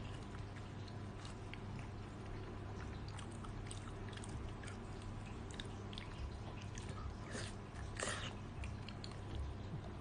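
Close-up eating sounds: soft chewing with many small wet mouth clicks, and a couple of louder smacking bursts about seven and eight seconds in.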